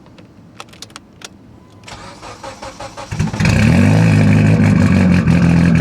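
A few light clicks, then about two seconds in a starter cranks the tuned Mitsubishi Lancer Evolution X's turbocharged 2.0-litre four-cylinder. The engine catches a little past three seconds and settles into a loud, steady idle.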